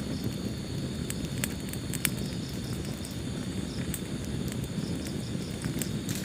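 Wood fire burning in a fireplace: a steady low rumble of flames with scattered sharp crackles and pops, the loudest about two seconds in.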